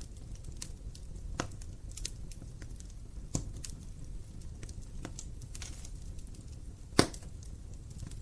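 Wood fire burning in a fireplace: irregular pops and crackles of burning logs over a low steady rumble of the flames, with one loud sharp crack about seven seconds in.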